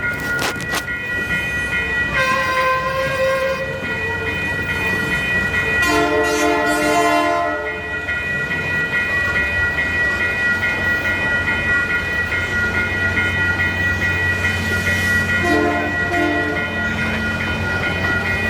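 A passing Canadian Pacific freight-style train with locomotives: a steady rumble of engines and wheels, with the locomotive horn sounding two long blasts and then two short ones near the end, over a steady high ringing.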